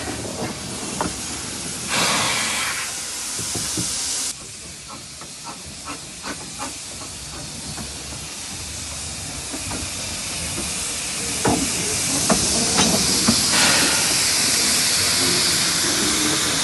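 Steam hissing from the narrow-gauge 0-4-2 saddle-tank steam locomotive 'Sir Haydn', with scattered metallic knocks. A loud hiss cuts off suddenly about four seconds in, and the hiss builds up again over the last few seconds.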